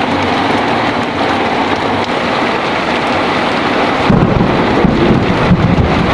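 Heavy rain falling steadily. About four seconds in, a low rumble of thunder rolls through for about two seconds.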